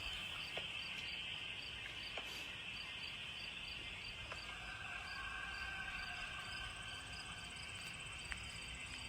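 Woodland insect chorus: crickets chirping in an even rhythm of about three chirps a second over a steady high-pitched buzz of other insects.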